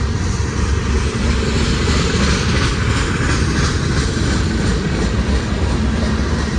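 Diesel freight locomotives working hard upgrade, a heavy steady engine drone with deep rumble that swells briefly in the middle.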